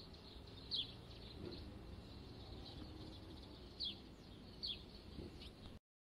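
A small bird calling faintly over low outdoor background noise: a few short, falling chirps, the clearest about a second in, near four seconds and near five seconds. The sound cuts off just before the end.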